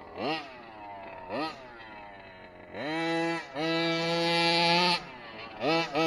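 Two-stroke gas engine of a 1/5-scale Kraken Vekta.5 RC trophy truck, blipped twice, each time falling back to idle. About three seconds in it is held at high revs for roughly two seconds with a brief dip. It drops back, then revs again near the end.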